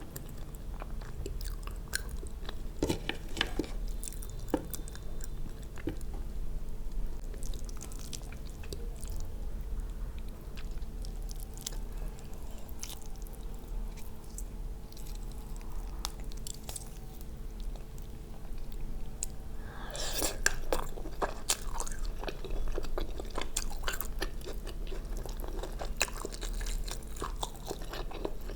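Close-miked chewing and mouth sounds of someone eating a chicken biryani meal: soft wet smacks and small crisp clicks, growing busier and louder about two-thirds of the way through.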